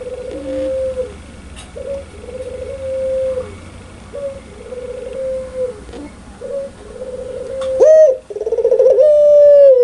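Puter pelung (domestic ringneck dove) cooing loudly: a run of steady, even coos about once a second, then near the end a louder up-swooping note, a fast stuttering 'laughing' run and a long coo that falls away at the end.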